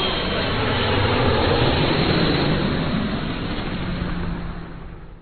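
Jet airliner's engines passing close, a loud rushing rumble that swells and then fades away over the last couple of seconds.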